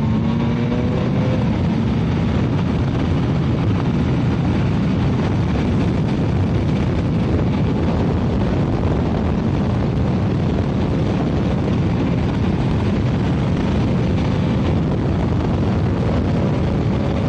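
Yamaha MT-09 inline-three engine accelerating, its pitch rising in the first second or so. After that, steady wind rush over the microphone at riding speed drowns most of the engine note.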